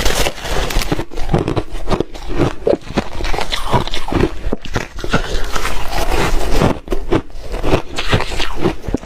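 Close-up crunching and chewing of re-shaved refrigerator frost ice, a fast, irregular run of crisp crunches.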